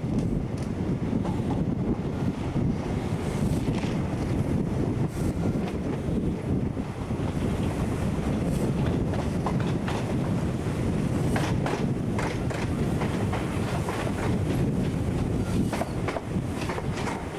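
A train running on the rails: a steady low rumble with sharp wheel clicks over the rail joints, coming more often in the second half.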